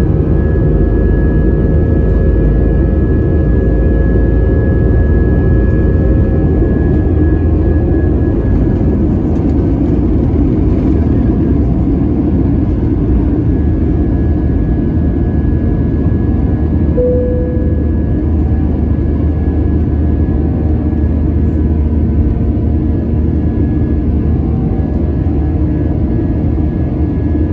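Airbus A320-200 jet engines and airflow heard from inside the cabin: a loud, steady rumble with several fixed engine tones over it.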